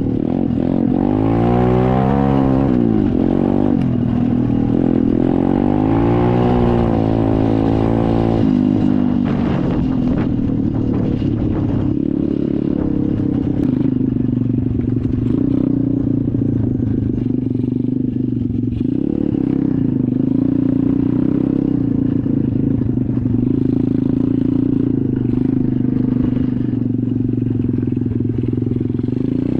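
SSR 125 dirt bike's single-cylinder four-stroke engine running while riding. It revs up and down repeatedly for the first eight seconds or so, then holds a fairly steady pitch.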